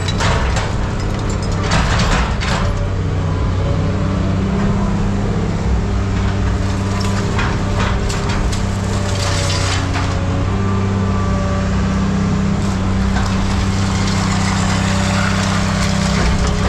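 A heavy diesel machine running steadily, with irregular clanks and crunches of scrap metal being handled.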